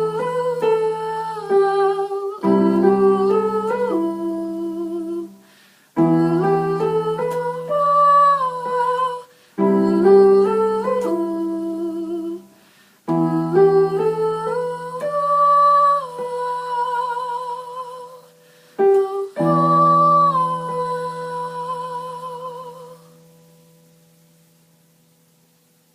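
A singer humming a wordless melody with vibrato over held piano-keyboard chords, in about six phrases of two to four seconds each. The last chord fades away a few seconds before the end.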